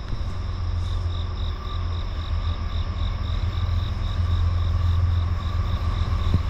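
Low rumble of an approaching freight train's diesel locomotives, slowly growing louder, under insects chirping: a high pulsing call about three times a second and a steady drone.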